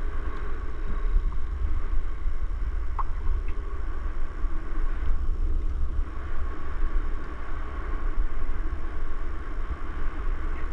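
Steady rumble of wind buffeting the microphone while a mountain bike rolls along, with continuous noise from the ride over the trail.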